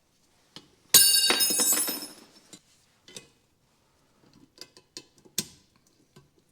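Metal pressing tools and parts being handled on a workbench: a loud metallic clang about a second in that rings on for about a second, followed by a series of light clinks and taps.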